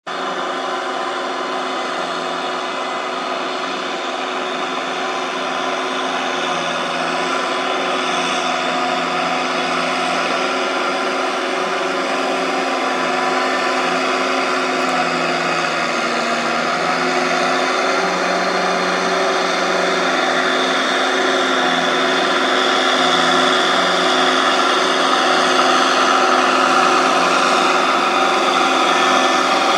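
Engine of a farm machine running steadily under load, a continuous droning hum that slowly grows louder.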